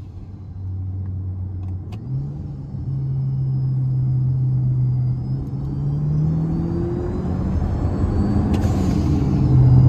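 Car engine accelerating hard in a short pull. The engine note steps up about two seconds in, climbs slowly and gets louder, then dips briefly about two-thirds through, as at an upshift.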